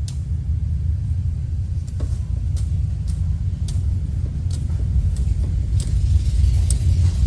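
A steady low rumble, such as wind buffeting the microphone, with about a dozen sharp clicks and cracks at irregular intervals, like snapping and knocking bamboo during clearing work.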